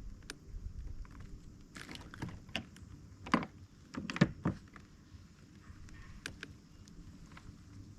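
A few knocks and rattles against a kayak, the loudest clustered about two to four and a half seconds in, over a low wind rumble.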